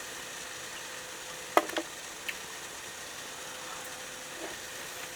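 Ribeye steak frying in a hot pan with olive oil: a steady sizzle, broken by a few short, sharp clicks near the middle.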